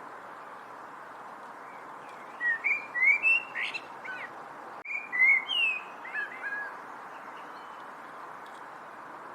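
A songbird singing two short phrases of quick, slurred chirping notes, the first about two and a half seconds in and the second about five seconds in, over a steady background hiss.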